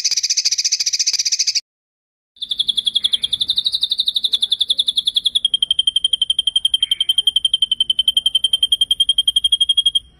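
Songbird's rapid rolling trill, the 'ngeroll' of masteran recordings: a short high trill, a brief break, then one long even trill of about nine notes a second that drops slightly in pitch about halfway through.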